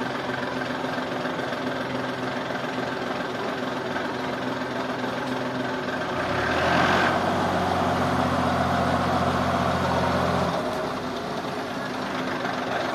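An engine running steadily at idle; about six seconds in, a deeper, louder engine note comes in and holds for about four seconds before dropping away.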